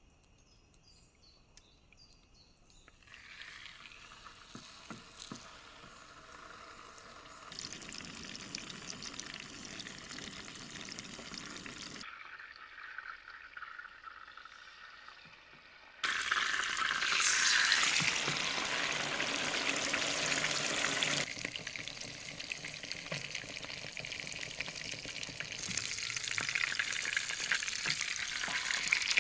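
Food frying and sizzling in a pan, now and then stirred. It starts faint a few seconds in, comes in several cut-together shots, and is loudest from about halfway.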